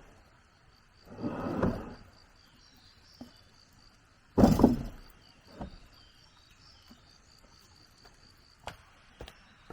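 An insect trilling steadily in the background while hand work with building materials goes on: a scraping swish about a second in, a heavy knock about four and a half seconds in with a lighter one after it, and a few sharp taps near the end.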